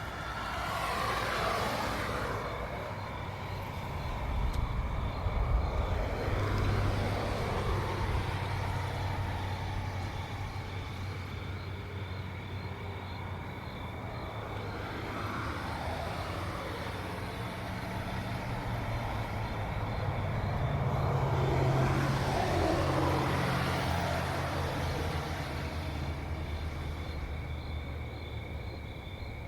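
Cars driving past one after another on a road, about four pass-bys, each falling in pitch as it goes by. Crickets chirp steadily underneath.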